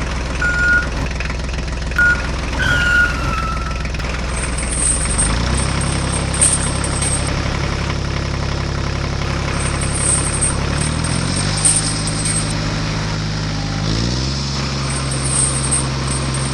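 Heavy vehicle engine running steadily, its pitch stepping up three times as it revs. Short high beeps and a falling whistle come in the first few seconds, and a high chatter comes and goes three times.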